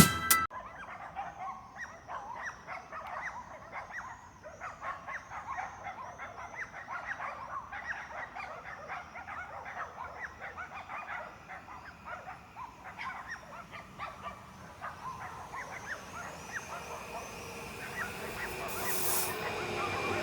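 Many short animal calls, close together, keep up throughout. From about 16 seconds in, the steady noise of an approaching ED160 electric multiple unit rises, with a brief high hiss near the end.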